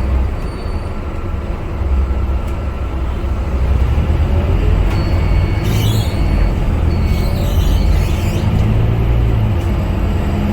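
Scania K250UB bus engine running with a steady low rumble, growing louder over the first few seconds as the bus pulls. Two short hisses come about six and seven and a half seconds in.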